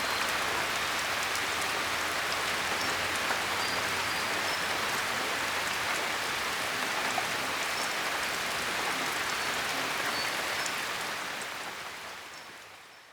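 Heavy rain falling steadily, fading out near the end.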